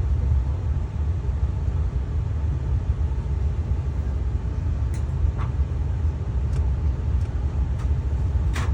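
Car engine idling with a steady low rumble, with a few faint clicks in the second half, the sharpest near the end.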